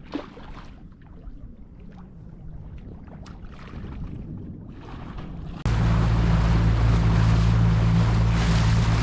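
Faint water lapping with small scattered clicks. Then, about two-thirds of the way through, a boat engine suddenly comes in loud, running steadily with wind and rushing water over it.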